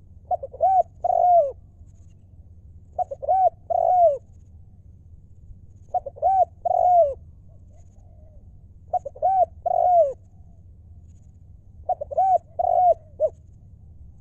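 Spotted dove singing its cooing song as a decoy call for luring wild doves: five phrases, about one every three seconds, each a few short coos followed by a longer coo that falls in pitch.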